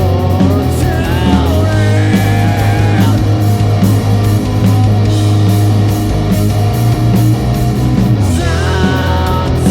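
Live rock band playing loudly: electric guitars, bass and drums keeping a steady beat, with a melody line bending in pitch over them.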